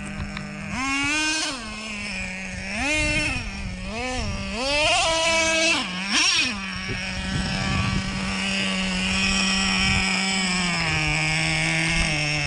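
Nitro RC truck's small two-stroke glow engine revving up and down in five quick blips, then holding a steady high-pitched drone from about seven seconds in.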